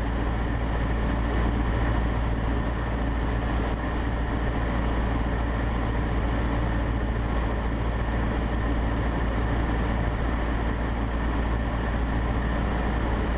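Cessna 150's four-cylinder Continental O-200 engine and propeller droning steadily inside the cockpit, at reduced power on the base leg of a landing approach.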